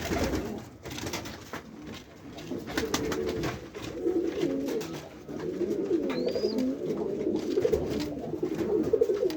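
Several domestic pigeons cooing at once, their low warbling coos overlapping without a break, with a few short clicks among them.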